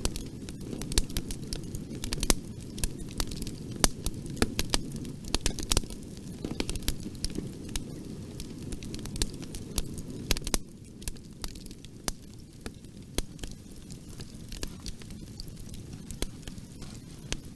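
Wood fire crackling in a fireplace: frequent sharp pops and snaps over a steady low rumble of burning, which eases a little about two-thirds of the way through.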